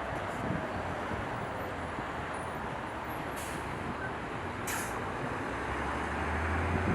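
Jet airliner engine noise at the airport, a steady rumble that grows slightly louder with a low hum near the end.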